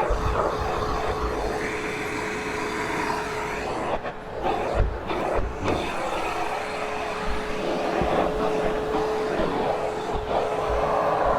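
Hoover Hushtone vacuum cleaner running, a steady motor whine over rushing suction as the cuff attachment works the carpet. The whine drops out briefly about four seconds in among a few knocks, then returns, and the suction noise swells near the end.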